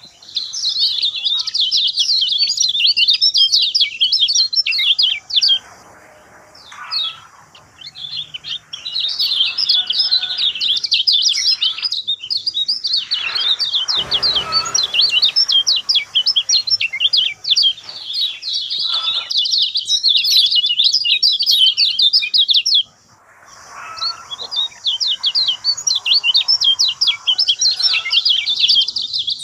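A kecial kuning songbird singing fast, chattering trills in long runs broken by short pauses. A brief noise about halfway through.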